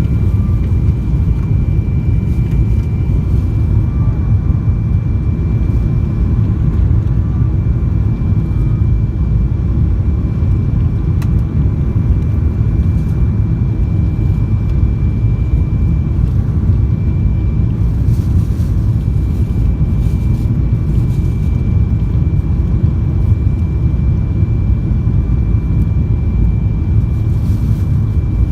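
Boeing 777 airliner cabin noise in flight: a steady low rumble of engines and airflow, with a faint steady high whine.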